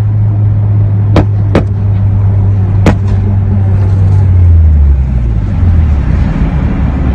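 Car engine droning heard from inside the cabin at highway speed, with three sharp exhaust pops in the first three seconds. Around the middle, the engine note drops as the car slows.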